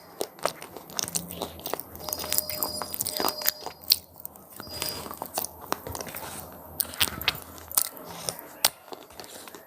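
Close-up biting and chewing of crunchy cheese pizza-flavoured snack pieces, a dense run of sharp irregular crunches.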